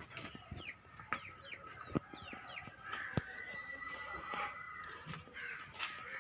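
Bird chirping: a run of short, falling chirps in the first few seconds, with a few sharp knocks in between.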